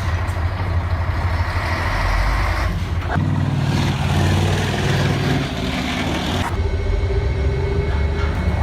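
Heavy off-road truck's diesel engine working under load. The sound changes abruptly about three seconds in and again about six and a half seconds in.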